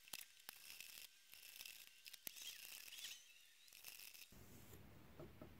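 Faint scraping strokes of an extra fine sharpening stone drawn along a steel knife edge in a guided sharpener, in stretches of about a second, with a couple of light clicks.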